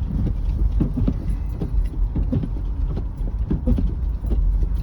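Car driving slowly along an unplowed, snow-covered road, heard from inside the cabin: a steady low rumble with frequent small irregular clicks and rattles.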